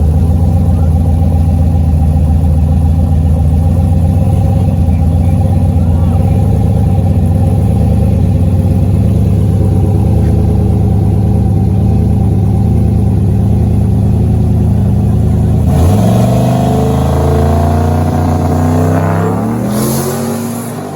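High-horsepower drag-racing engine running loud at a steady pitch, then about three-quarters of the way through climbing steadily in pitch as the vehicle accelerates hard, and fading near the end.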